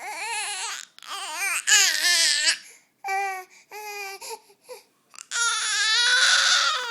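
Baby vocalising: a string of high, wavering squeals and cry-like wails, about six in all with short breaks, the longest one held near the end.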